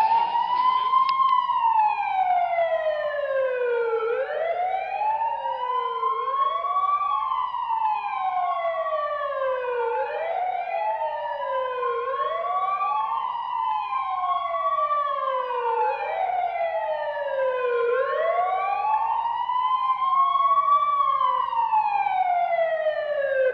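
Two wailing emergency-vehicle sirens sounding together, out of step with each other: each rises quickly, then slides slowly back down, repeating about every three seconds. They cut off suddenly at the end.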